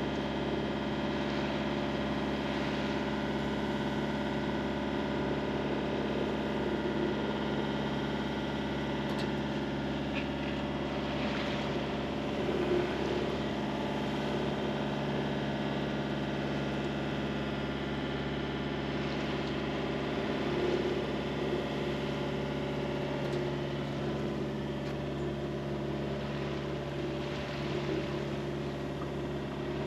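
A sailboat's inboard engine running steadily under way, with water rushing past the hull now and then.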